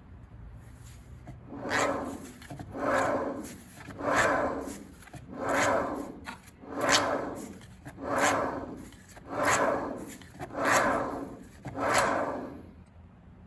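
About nine even rubbing or scraping strokes, a little more than one a second, each swelling and fading away.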